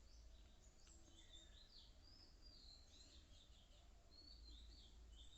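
Faint bird chirping: many short, high-pitched chirps and whistles coming one after another, over a low steady hum.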